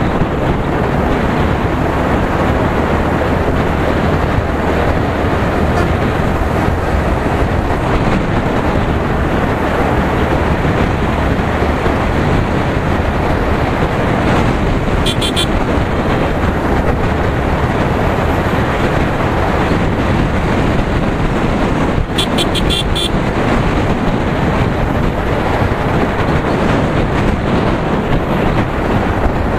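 Steady road noise from a ride on a Yamaha R15 V3 motorcycle: wind rush and engine running continuously. Short horn beeps come about halfway through and again, as a quick cluster, about three quarters of the way in.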